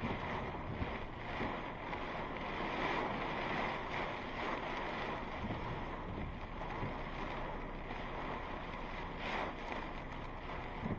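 Strong thunderstorm wind gusting, a steady rushing noise with small swells.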